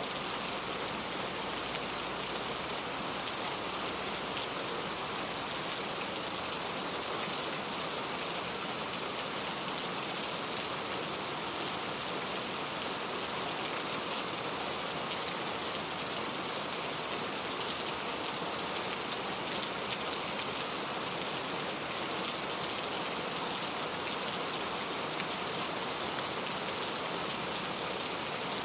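Steady rain falling, an even hiss with the light patter of individual drops.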